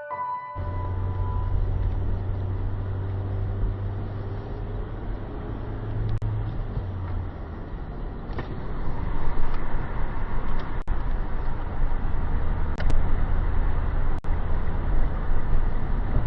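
Engine running at a steady pace: a low drone under a haze of rushing noise, growing louder about halfway through, with a few sharp clicks.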